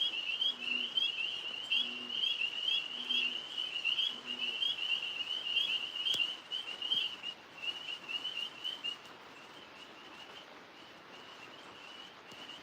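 Chorus of tree frogs chirping steadily, thinning out and getting quieter about two-thirds of the way through. Under it a bullfrog calls from the pond, four short deep notes about a second apart in the first few seconds.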